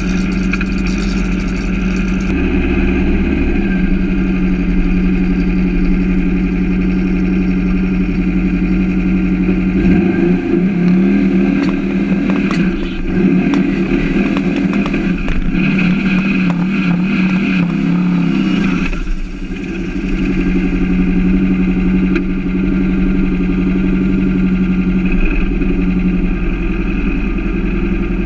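Turbocharged 2332cc air-cooled VW flat-four in a Beetle drag car idling with a steady, lumpy note. From about ten seconds in it is revved unevenly with crackles for several seconds, dips briefly, then settles back to idle.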